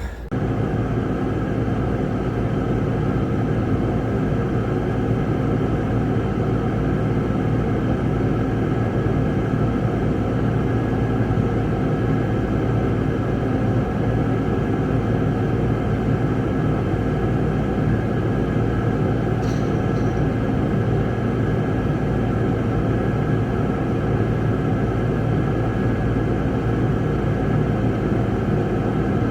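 Case tractor's diesel engine idling steadily.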